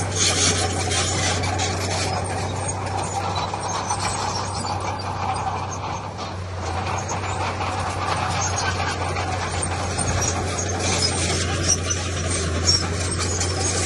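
Diesel engine of heavy earthmoving machinery running steadily with a low hum, under a constant rattling, scraping noise.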